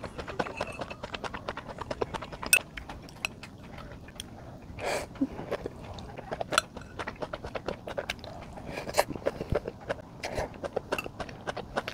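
Close-miked crunching chewing of raw julienned vegetables, mostly carrot strips, left over from a bowl of bibim-myeon. Many quick, sharp crunches follow one another.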